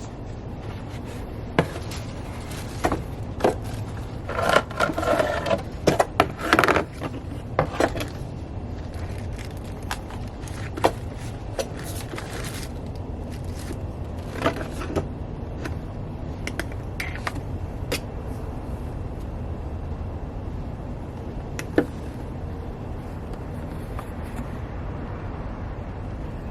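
Handling noise from unboxed items: scraping and sharp clicks, bunched together in the first eight seconds, then a few single clicks, over a steady low background hum.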